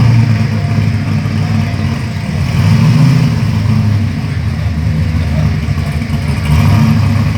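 Car engine running with a deep rumble, swelling about three seconds in and again near the end.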